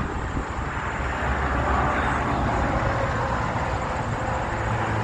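Steady rush of wind and traffic noise while riding a bicycle uphill, with the rumble of nearby highway traffic underneath.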